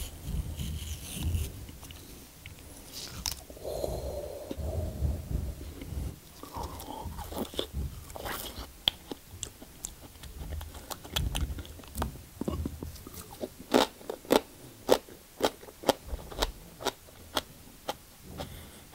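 A knife cutting a raw aloe vera leaf, then the leaf bitten and chewed with crunching. The crunches come about two a second in the second half.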